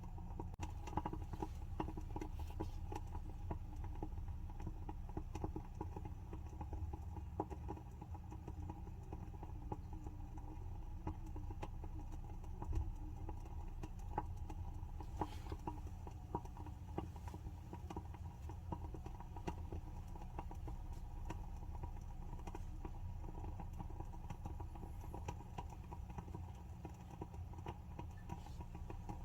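WoodWick candle's wooden wick burning with a continuous soft crackle of small, irregular pops, one a little louder about halfway through, over a low steady hum.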